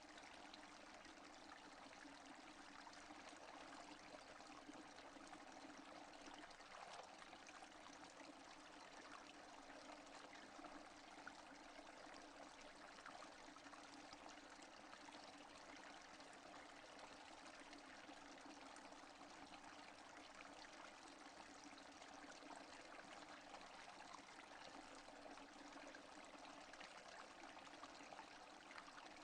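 Faint, steady rain falling, many small drops ticking, with no thunder.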